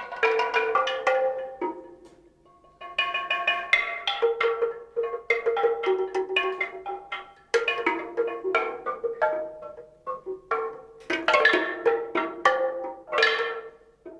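Tuned percussion struck in quick, irregular runs of ringing pitched notes, each with a sharp attack and a short fading ring; a brief lull about two seconds in, then denser, louder runs in the second half.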